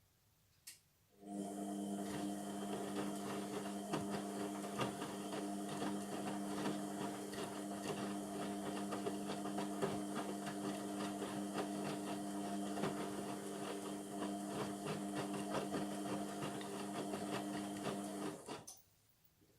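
Indesit MTWC71252WUK washing machine: a click, then a steady electrical hum with busy rattling for about seventeen seconds, cutting off sharply.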